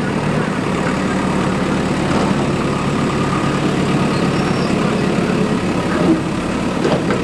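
Diesel engine of heavy earthmoving machinery running steadily, with a few faint knocks over it.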